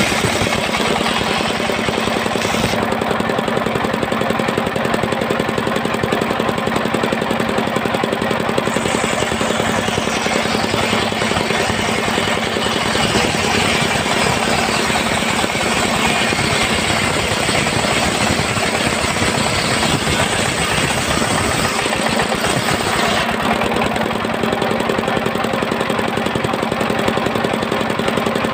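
Engine-driven circular sawmill running steadily, its engine humming under the spinning blade; from about nine seconds in to about twenty-three seconds a brighter, hissing layer is added on top.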